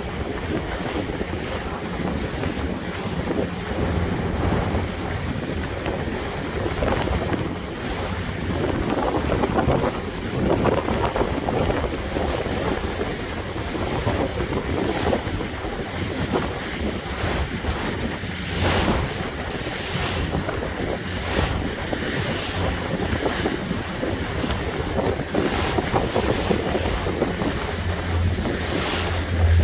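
Boat under way: water rushing and splashing along the hull, with wind gusting on the microphone over a steady low hum.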